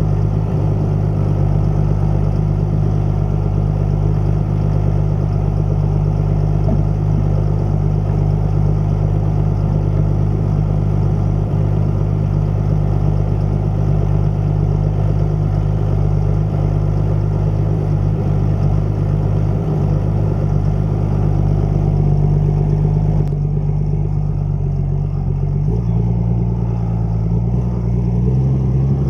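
Deutz-Fahr 6160 TTV tractor's six-cylinder diesel engine running at a steady speed. About three quarters of the way through, the engine note turns duller and its pitch shifts as the engine speed changes.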